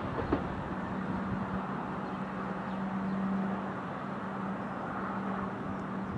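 Electric multiple-unit train running through the station: a steady rumble with a steady electric hum that comes in about a second in.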